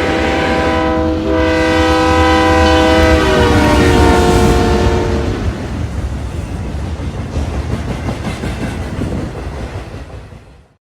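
Locomotive air horn sounding a chord, with a short break about a second in, dropping in pitch about three seconds in as the locomotive passes and stopping about halfway. The rumble and wheel clatter of the passing train continue and fade out near the end.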